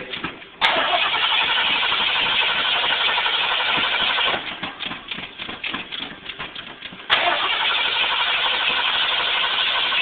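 1983 Ford F-150's carbureted 302 V8 cranking and firing on a cold start after sitting unused for ages. It comes in suddenly and loud about half a second in, turns uneven and sputtering after about four seconds, then comes in loud again after about seven seconds.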